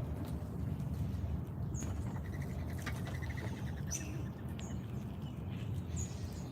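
Small backyard birds calling: a few short, high chirps, and a rapid trill about two seconds in, over a steady low rumble.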